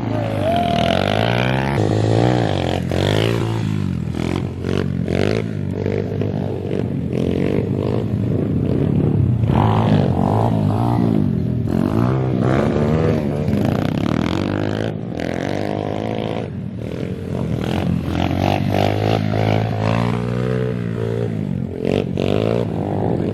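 Several pit bike engines revving, their pitch rising and falling over and over as the bikes accelerate and back off, over a steady low engine note.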